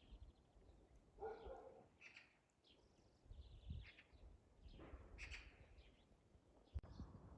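Short bird calls repeated several times, about a second apart, faint, with a sharp click near the end.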